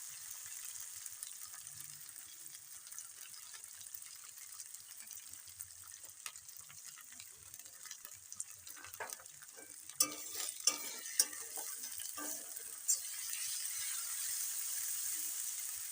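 Onion, garlic and ginger paste frying in mustard oil in a kadai: a steady, high sizzle, with a metal spatula scraping and clicking against the pan several times around the middle.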